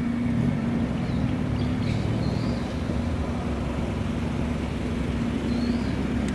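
Classic car engine running steadily with a low, even note and no revving.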